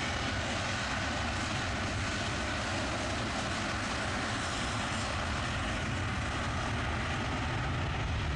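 Airliner engines running, a steady, even noise that neither rises nor falls.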